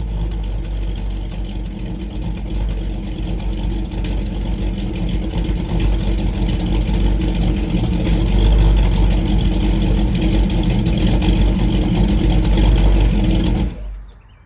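Chevrolet 350 small-block V8 idling through block-hugger headers and Flowmaster Super 10 single-chamber mufflers, with the light lope of a hydraulic roller camshaft. The sound stops abruptly near the end.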